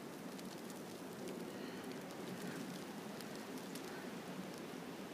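Falling snow ticking lightly on surfaces: a steady faint hiss with scattered small ticks.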